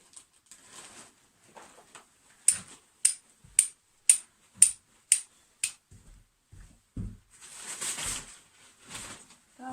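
Steel striker scraped against a flint, seven sharp strikes at about two a second, throwing sparks to catch an ember on charcloth. After the strikes come softer rustling and a few low knocks as the charcloth is handled.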